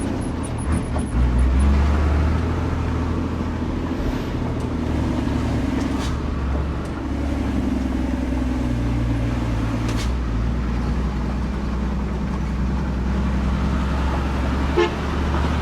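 Loaded dump truck's diesel engine running steadily while driving on the road, with road noise and a short sharp sound near the end.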